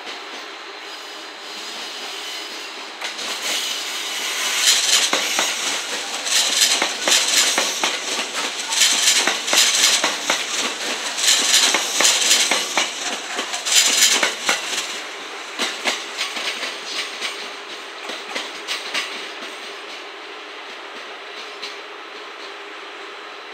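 JR West 227 series four-car electric multiple unit passing close by, its wheels clattering in quick runs of clicks over the rail joints. The clatter builds a few seconds in, is loudest in the middle, and fades away over the last few seconds.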